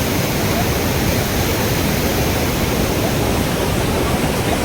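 Dhuadhar Falls on the Narmada River: a steady, loud roar of falling water.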